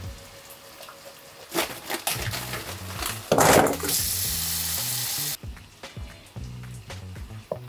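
Food sizzling in a frying pan: a loud burst of hissing about three seconds in, then a steady sizzle that cuts off suddenly. Near the end a knife taps a few times on a wooden cutting board as soft acorn jelly is sliced. Quiet background music plays throughout.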